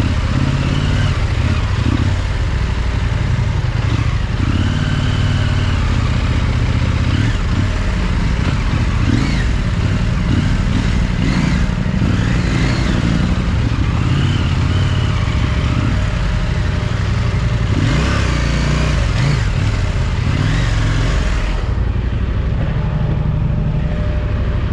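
Parallel-twin adventure motorcycle engine running while being ridden off-road, its pitch rising and falling with the throttle.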